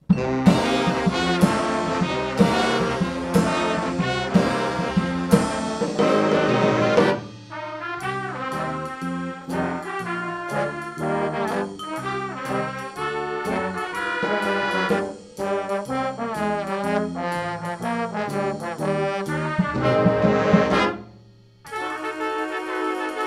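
Student brass ensemble, trombones and trumpets to the fore, playing an instrumental holiday piece with a steady beat. It comes in loud right after a short silence, turns softer and choppier about seven seconds in, dips briefly near the end, then comes back loud.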